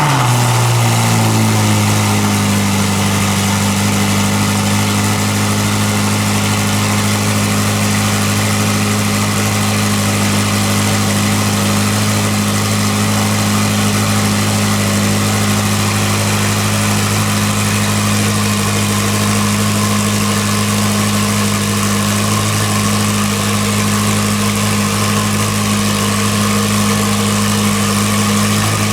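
Ferrari SF90 Stradale's twin-turbo V8 just after a cold start. The revs drop from the start-up flare during the first second or so, then hold a loud, steady high idle.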